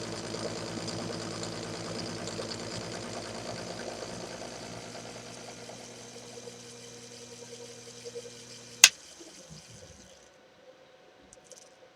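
Small hobby lathe running under leadscrew power feed during a 25-thousandths cut: a steady motor and gear hum whose busier noise thins out over the middle. Near the end a single sharp click, and the motor hum stops.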